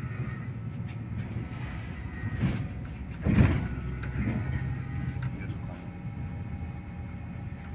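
Steady engine hum inside a MAZ-215 articulated city bus, with the passenger doors working a little after three seconds in: a short loud rush of noise with a thud, and lighter clunks just before and after.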